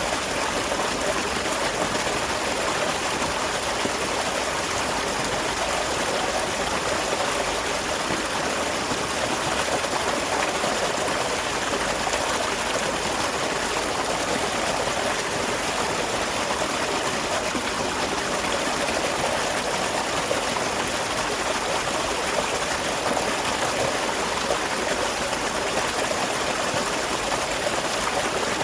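Small waterfall splashing and flowing steadily.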